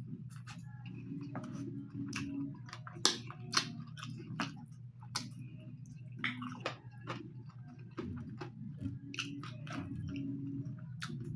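A person chewing and eating spicy chicken curry with rice, with irregular wet mouth clicks and smacks. A steady low hum runs underneath.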